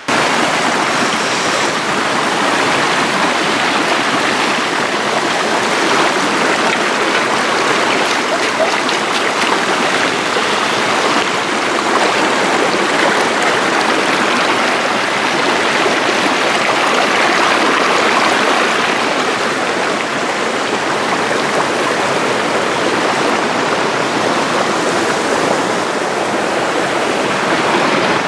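Mountain creek water rushing, a loud, steady wash with no breaks.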